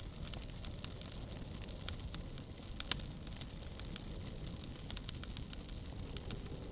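Wood fire crackling, with scattered sharp pops and snaps over a steady low rumble; the loudest pop comes about three seconds in.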